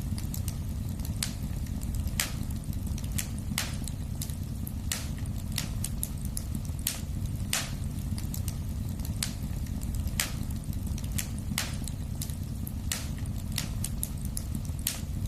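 Wood fire burning in a fireplace: irregular sharp crackles and pops, about one or two a second, over a steady low rumble of the flames.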